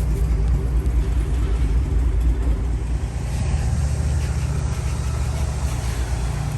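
Engine running steadily at idle, a continuous low rumble.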